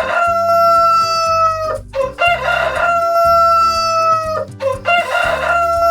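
A rooster crowing three times in a row, each crow a long, loud, held call that falls off at the end. The first crow is already under way at the start, and the third begins near the end.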